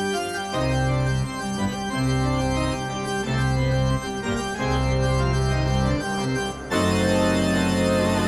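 Organ music as a spooky vampire cue: a string of held chords, about a second each, with a fuller chord coming in near the end.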